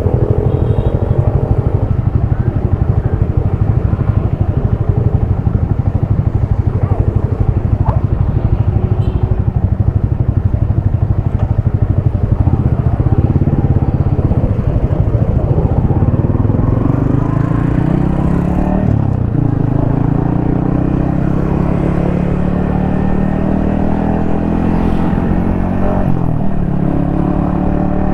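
Yamaha XSR155's single-cylinder engine, heard from the rider's helmet. It runs steadily at low revs, then from about halfway it accelerates with a rising note and drops briefly for two gear changes.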